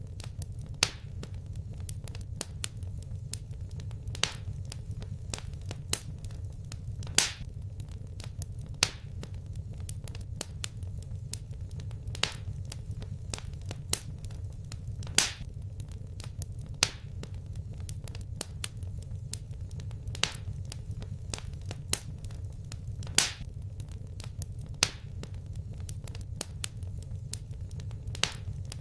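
Wood fire crackling: sharp pops every second or two and fainter ticks in between, over a steady low rumble.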